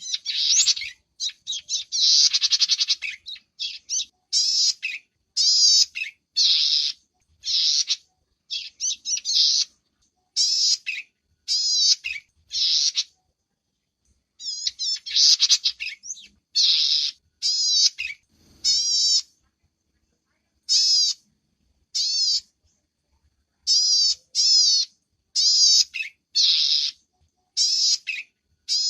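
Small bird calling over and over in short, high, chattering bursts about once a second, each burst zigzagging in pitch, with brief pauses between runs.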